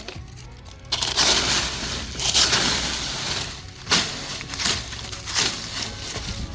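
Dry leaves rustling and crunching as they are turned over and handled, starting suddenly about a second in, with a sharp crack near the middle.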